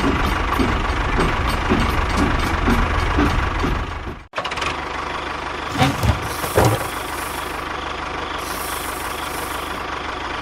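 A motor running with a rhythmic chug of about two to three beats a second. About four seconds in the sound breaks off sharply and returns as a steadier hum, with two knocks and two short bursts of hiss.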